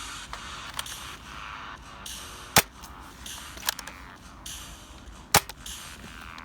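Nerf foam-dart blaster firing: sharp pops, the two loudest about two and a half and five and a half seconds in, with fainter clicks and short hissing stretches between them.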